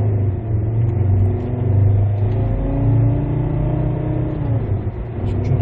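SsangYong Kyron's diesel engine running under way, heard with road noise inside the cabin as a steady drone, the engine note drifting slightly up and back down.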